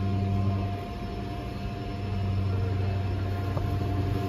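Steady low mechanical hum with a few faint steady tones above it, the deepest part easing off about a second in.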